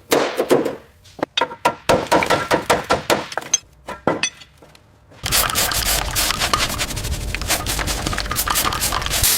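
Workshop clatter: a quick run of sharp knocks and clinks, then from about five seconds in a steady rushing noise peppered with crackles that stops suddenly near the end.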